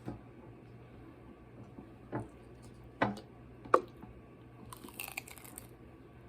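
Quiet close-up eating and food-handling noises: a few isolated sharp clicks, the loudest just before four seconds in, then a brief crinkling rustle about five seconds in.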